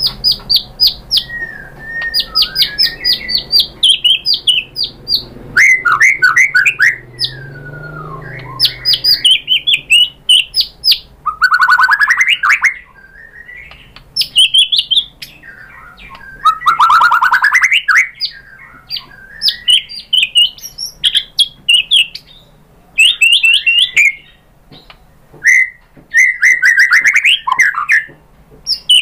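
White-rumped shama singing a loud, varied song: fast runs of repeated notes, gliding whistles and harsh chattering bursts, one phrase after another.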